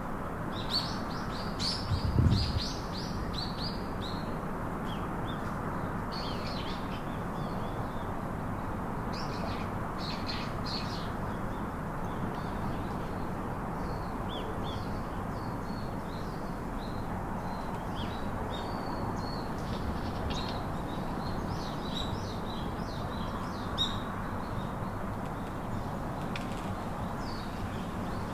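Pet parakeets chirping in short, scattered high calls over a steady background noise, with a low bump about two seconds in.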